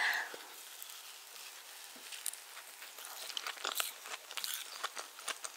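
Close-miked mouth sounds of someone eating a piece of soft spiced orange sponge cake: quiet chewing with scattered small wet clicks, more frequent in the second half.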